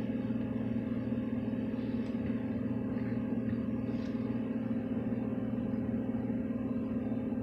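Steady low mechanical hum made of a few fixed pitches that holds without change.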